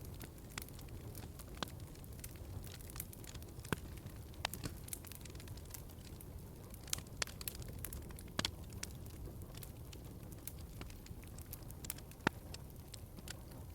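Wood fire crackling in a fireplace: irregular snaps and pops over a low, steady rumble, with a few sharper pops about four, eight and twelve seconds in.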